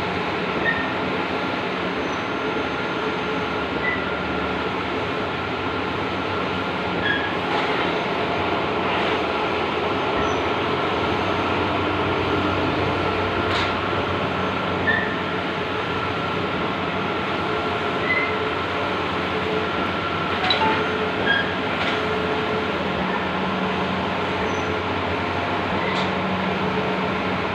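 Large-format outdoor banner printing machine running: a steady mechanical whir and hiss with faint steady hums and occasional short clicks.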